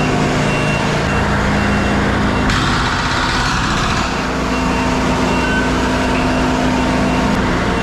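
Dump truck's diesel engine running steadily and loudly, with a reversing alarm beeping on and off. A burst of hiss comes about two and a half seconds in.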